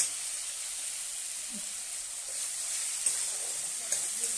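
Onion and tomato masala sizzling in hot oil in a metal kadai, a steady hiss, with a metal spatula tapping against the pan sharply at the start and twice more near the end.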